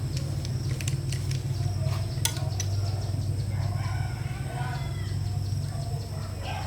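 Chickens clucking over a steady low mechanical hum, with several sharp clicks or taps in the first couple of seconds.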